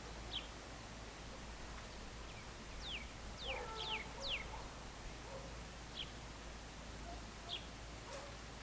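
Wild birds calling at dusk: scattered short chirps, with a quick run of four sharp downward-sliding chirps about halfway through, over a low steady background hum.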